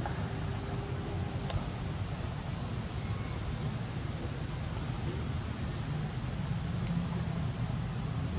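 Insect calls: a high buzzing tone that sweeps up and then holds, repeating every second or two, over a steady low rumble.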